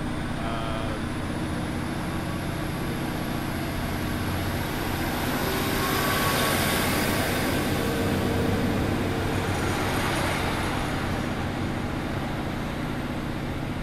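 Diesel train moving through the station: a steady low engine drone, a thin high whine rising in pitch over the first five seconds, and a swell of engine and wheel noise that peaks midway and then eases.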